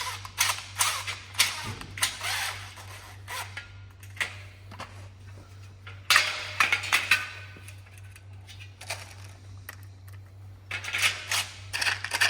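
Irregular clinks and knocks of metal parts and tools being handled, coming in clusters at the start, around the middle and near the end, over a steady low hum.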